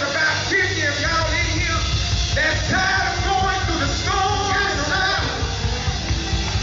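Gospel group singing with band accompaniment: several voices holding and bending notes together over a steady bass line.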